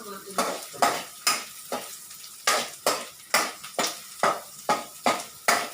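Spatula scraping and knocking against a frying pan about twice a second while ground meat sizzles, being sautéed with onion and garlic.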